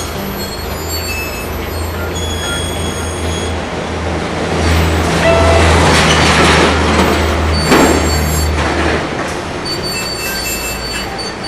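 Large-scale garden model train running on track: a steady low drone with thin high wheel squeals, growing louder as it passes about halfway through, then fading.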